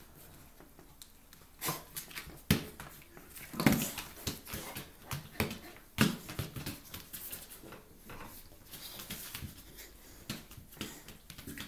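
A chow chow and a Samoyed play-fighting, with scuffling, scattered clicks and irregular thumps, the loudest about two and a half, three and a half and six seconds in.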